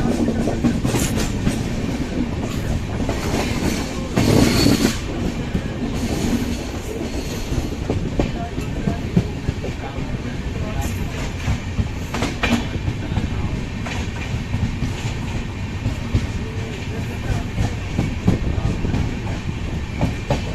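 Express passenger train running at speed: a steady rumble with the clickety-clack of its wheels over the rail joints, and sharp clatters here and there, loudest about four seconds in.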